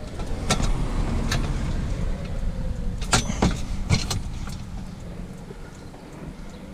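A vehicle running with a low rumble that swells and then fades, with several sharp knocks and clanks over it, the loudest a cluster about three seconds in.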